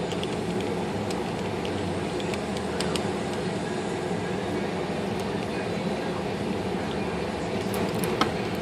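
A steady mechanical hum with a few faint light clicks.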